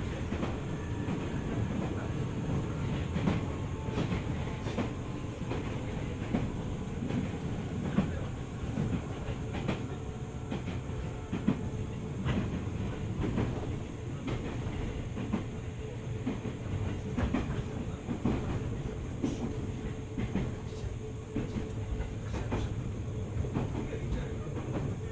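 A JR 205 series electric multiple unit running at speed, heard from on board. Its wheels click over rail joints again and again above a steady low rumble.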